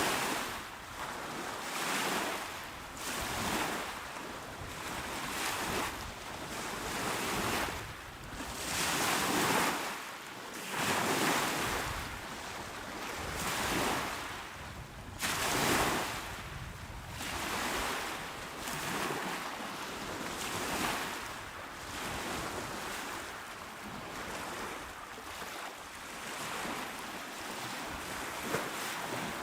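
Calm, small waves washing onto the shore, the surf noise swelling and ebbing about every two seconds.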